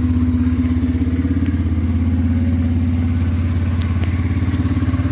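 Yamaha Kodiak 450 ATV's single-cylinder four-stroke engine idling steadily with an even, fast pulse, just after a cold start, with the choke on.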